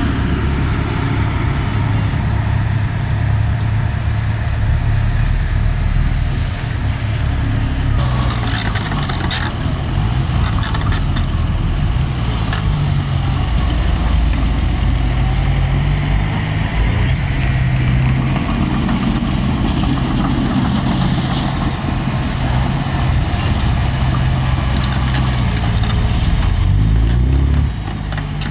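Diesel engine of heavy earth-moving machinery running under load, its pitch rising and falling as it works. Bursts of metallic clatter come about eight seconds in and again near the end.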